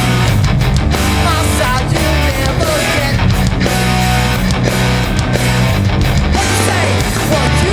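A hardcore punk band playing live: loud electric guitars and bass carrying a song without a break.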